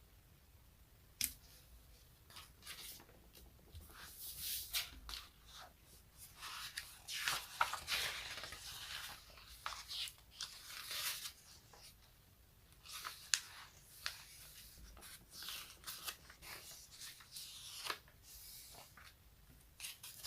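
Sticky surfaces being pressed and peeled apart, making irregular crackling, tearing-like rasps with a few sharp clicks. The sounds come in clusters with short lulls, busiest through the middle.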